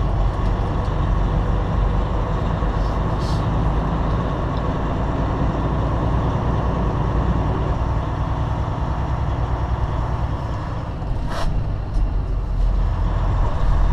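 Semi-truck cab noise while driving: the diesel engine and the road make a steady, heavy rumble. Two short hisses come through, about three and about eleven seconds in.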